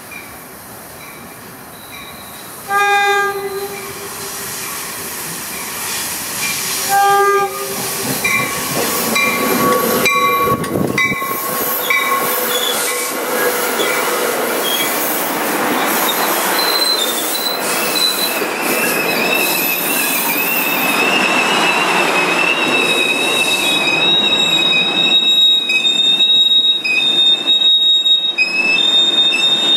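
A commuter train's horn sounds two blasts, the first about a second long and the second shorter. The train then rolls close by with a growing rumble, and its wheels squeal high and steadily from about halfway through.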